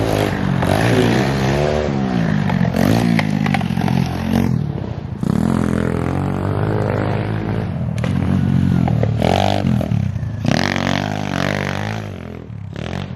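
Pit bike engine revving hard and easing off again and again as it is ridden around the dirt track and over a jump, with stretches of rushing noise.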